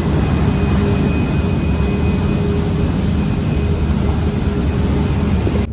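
Passenger ferry under way: the engine's steady low drone under a loud, even rush of wind over the microphone.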